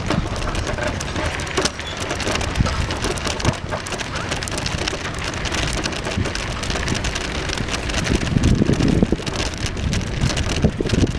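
Bicycle tyres rolling over an unpaved trail: a steady crackling hiss full of small clicks and crunches, with a low rumble, briefly heavier about eight seconds in.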